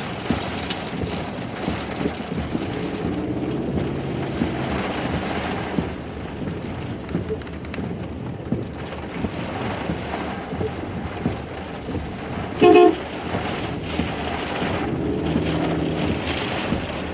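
Wind-driven rain from a tornado's rear-flank downdraft rushing steadily against the chase vehicle. About thirteen seconds in, a short loud toot sounds once.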